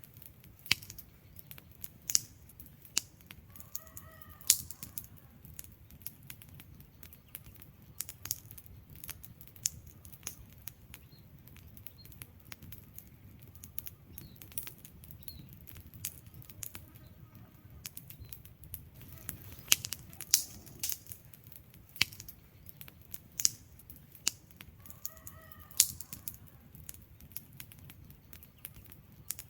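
Wood fire in a fireplace crackling: irregular sharp pops and snaps from the burning logs over a low steady rumble of flame, with a faint short whistling note twice.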